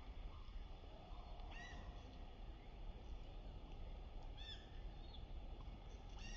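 A bird gives three short, harsh calls a few seconds apart, over a steady low background rumble.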